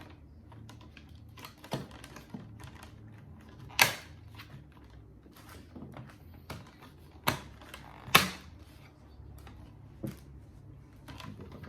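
Scattered clicks and knocks from handling and fitting the portable air conditioner's window slide kit and its lock pieces, with louder knocks about four seconds in and twice between seven and eight and a half seconds.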